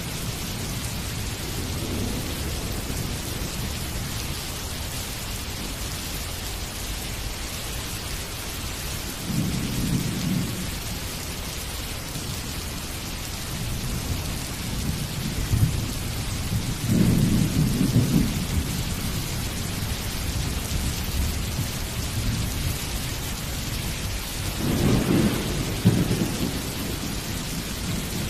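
Steady rain falling, with thunder rolling in low rumbles several times: about ten seconds in, more strongly from about fifteen to eighteen seconds, and again near the end.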